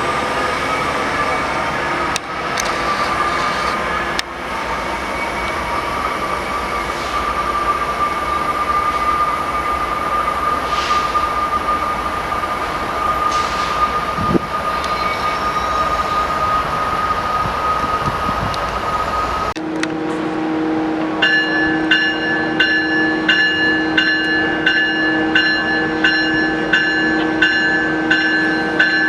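A train rolling past with a steady, high squeal over the rumble of the wheels. After a sudden cut, a railroad crossing signal bell rings in an even rhythm, about one strike a second.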